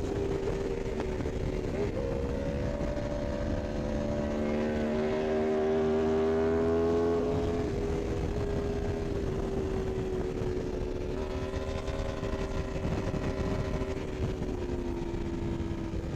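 Sport motorcycle engine running hard at high revs, its pitch climbing for several seconds and then dropping about seven seconds in, over steady wind and road noise.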